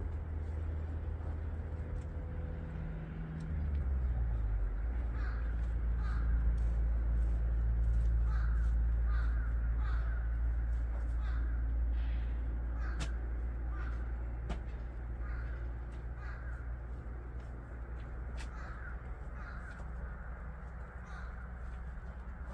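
Crows cawing repeatedly, a short call about once a second, over the steady low drone of a farm machine's engine, which drops in pitch a few seconds in.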